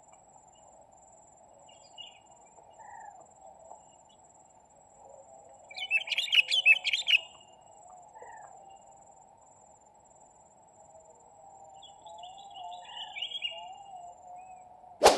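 Wild birds chirping in a rapid burst about six seconds in and again more faintly near twelve seconds, over a faint steady background hum. A single sharp snap comes right at the end.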